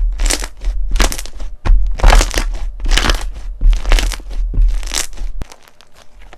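Crunchy slime being squeezed and pressed by hand, crackling about once a second, over a low handling rumble that stops near the end.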